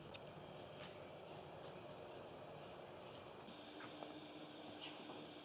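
Rainforest insects calling in a steady, high-pitched drone, with two unbroken high tones; a lower steady tone joins about halfway through.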